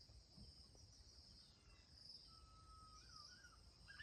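Faint outdoor ambience: a steady high insect trill, with a bird's short whistled note that wavers at its end about halfway through.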